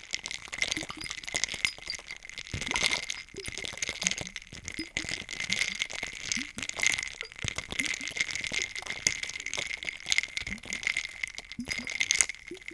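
Ice cubes rattling and clinking in a drink, with short bubbling plops of liquid among the clicks.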